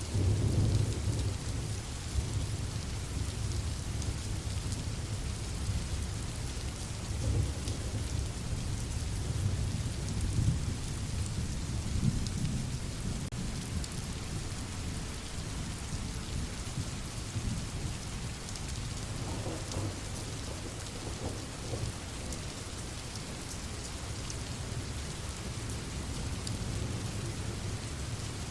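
Steady rain falling, with low rolling thunder rumbling underneath, strongest in the first half and easing off later.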